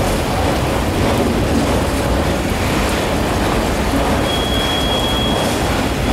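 Freight train of autorack cars rolling past at steady speed, a dense continuous rumble mixed with rainfall. A thin high wheel squeal sets in about four seconds in.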